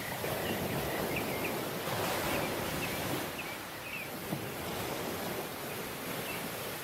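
Tropical beach surf: waves washing in as a steady rushing hiss that swells near the start and again about two seconds in. Scattered short high chirps run over it, with a single sharp click a little past the middle.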